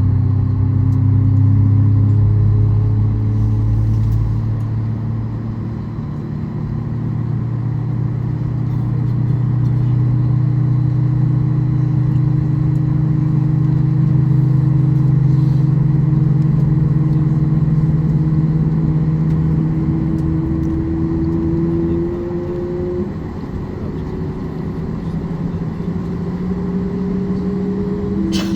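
Cabin drone of a Boeing 737 MAX 8 during pushback and engine start, with several tones rising slowly in pitch as a CFM LEAP-1B engine spools up. A short click sounds near the end.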